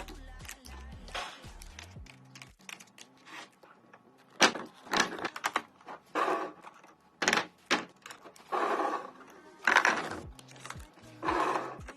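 Food packages and plastic containers being handled and set down while stocking a refrigerator: a run of clicks and knocks with bursts of rustling packaging, sparse at first and louder and busier from about four seconds in.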